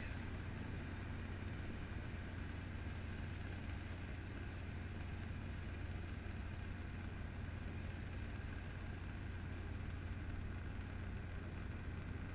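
Steady drone of a running helicopter heard from inside the cabin: engine and rotor noise with a strong low hum, unchanging in pitch and level.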